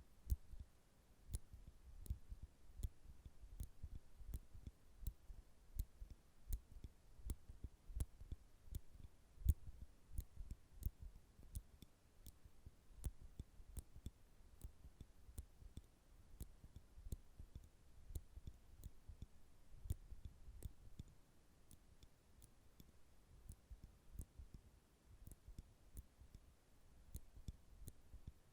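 Metal nail clippers clicking and snapping, close up, in a faint, irregular run of sharp clicks with soft low thuds of handling between them.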